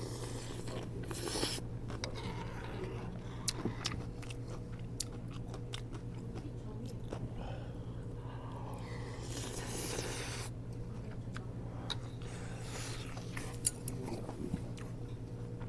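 A person eating: chewing and crunching food, with scattered sharp clicks of utensils against tableware, over a steady low hum.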